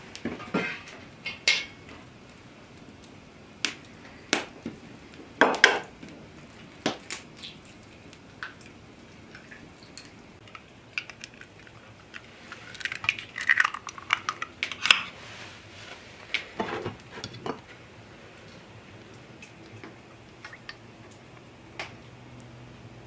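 Kitchen utensils and dishes knocking and clinking in irregular sharp strikes, with a busier run of clatter a little past the middle.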